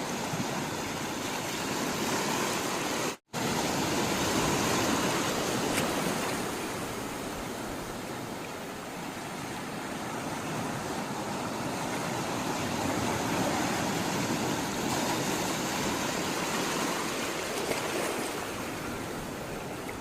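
Sea water rushing and washing, a steady noise that swells and eases a little, with a momentary dropout to silence about three seconds in.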